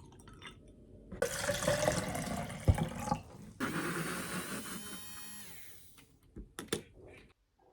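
Water running from a tap for about two seconds, a brief stop, then running again into a container, with a ringing pitch that shifts as it fills. A few light knocks near the end.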